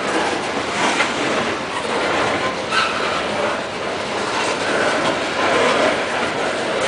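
Coal cars of a freight train rolling past close by: a steady rumble of steel wheels on rail with a few sharp clacks as the wheels cross rail joints, and a brief wheel squeal about three seconds in.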